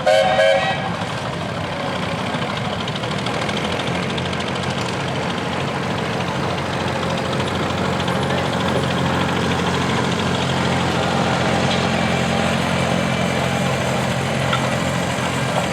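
Garden tractor engine running steadily, slowly growing louder, with a brief pitched sound at the very start.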